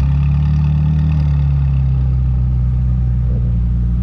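Car engine running nearby, a loud, steady low rumble that swells slightly in the first couple of seconds.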